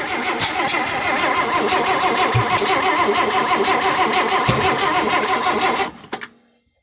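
1958 AMC Rambler's 195.6 cubic-inch overhead-valve six being cranked by the starter after gas was poured into the carburetor. It turns over steadily without catching, with two short thumps partway through, and the cranking stops about six seconds in. This is a failed first start.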